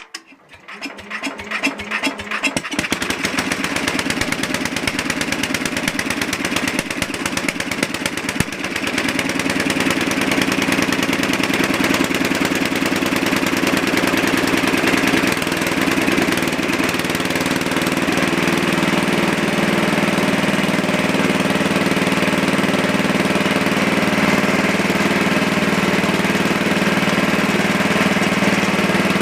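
Cold start of a Super 12 N hydro garden tractor's engine: it cranks and catches within about two seconds, then runs, picking up speed about eight seconds in and running steadily after that.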